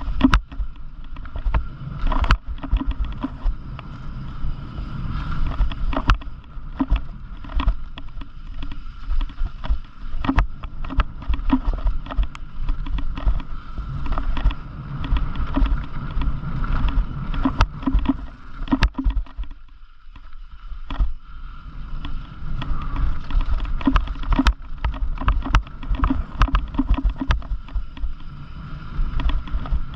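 Bicycle riding down a rough trail: tyres rumbling over the ground, with frequent sharp knocks and rattles from the bike jolting over bumps. There is a brief lull about twenty seconds in.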